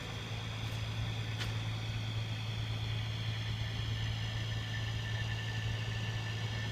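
Cat C15 diesel engine of a 2007 Peterbilt 379 idling with a steady low hum and a faint high whine above it. Two light clicks come in the first second and a half.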